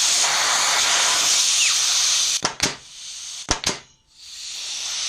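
Compressed air hissing steadily out of the trigger area of a Bostitch pneumatic framing nailer: a trigger-valve leak that a substitute rubber O-ring has not fully cured. About halfway through the hiss breaks off and two pairs of sharp clacks follow, with a fainter hiss between them that swells again near the end.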